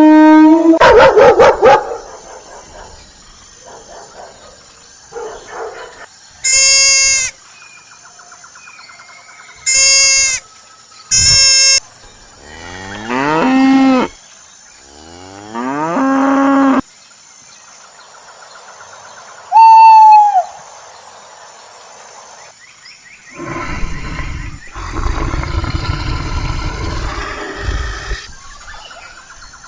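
Cattle mooing: a string of separate loud calls with short gaps between them, some long and sliding down in pitch, together with other animal calls.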